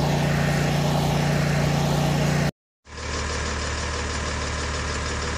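Truck engine idling sound effect: a steady low hum that cuts off abruptly about two and a half seconds in. After a brief silence, a second, deeper idling engine sound starts and runs on steadily.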